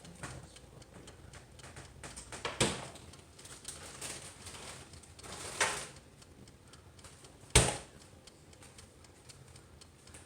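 Handling noises of a countertop appliance's parts being moved: a few scrapes and knocks, with one sharp knock about seven and a half seconds in, over faint steady ticking.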